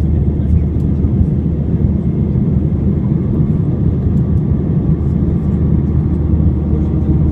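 Steady low rumble of an Airbus A320's engines and rushing air, heard from inside the passenger cabin.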